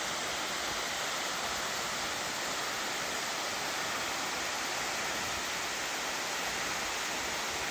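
Shine Falls, a 58 m waterfall running low in near-drought, dropping into a shallow pool: a steady, even rush of falling water.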